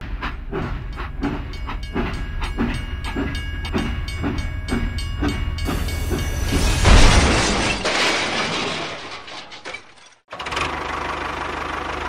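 Steam-train sound effect: steady chuffing at about three strokes a second over light music. About seven seconds in comes a loud rushing burst that dies away, and after a brief gap a steady hiss.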